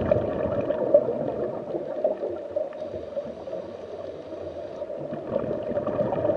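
Steady, muffled underwater ambience of bubbling and gurgling water.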